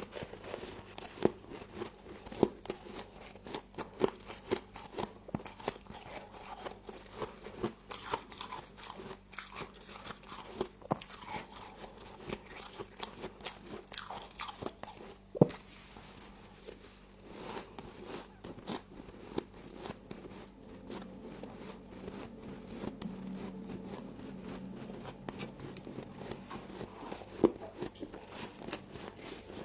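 Frost being bitten and chewed close to the microphone: a steady run of crisp crunches, with a sharper, louder crunch about halfway through and another near the end.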